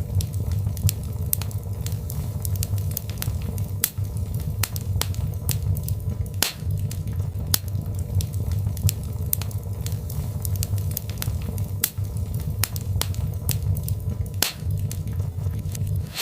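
Birch logs burning in a fireplace: a steady low rumble of flame with irregular sharp crackles and pops. Two louder pops come about six and a half and fourteen and a half seconds in.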